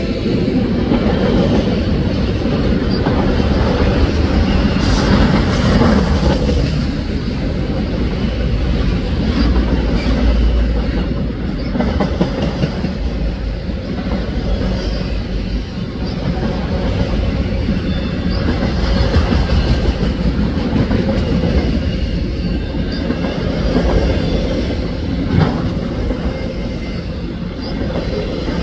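Freight train's autorack cars rolling past close by: a steady low rumble of steel wheels on rail, with a few clanks in the first several seconds.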